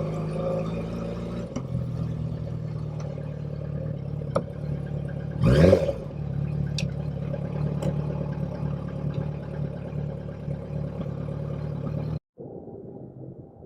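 Motorcycle engine running steadily while riding. About halfway through comes a brief, loud rising whoosh. Near the end the sound cuts out abruptly and returns muffled and quieter.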